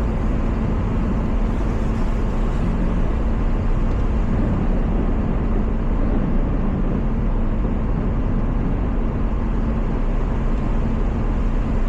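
Steady engine and tyre noise heard from inside the cabin of a front-wheel-drive car driving on snowy streets, with a steady low hum.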